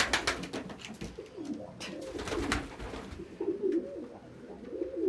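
Domestic pigeons cooing: low, wavering coos through the second half, after a couple of seconds of crackling rustles.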